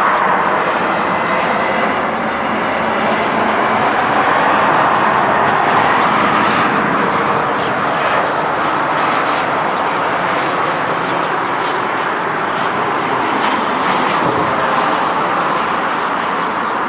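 Jet airliner engines producing a loud, steady rush of noise.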